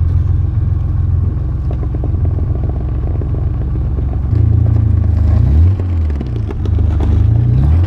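BMW E28 535is's straight-six engine running under light load as the car reverses, its revs dipping and rising a few times in the second half.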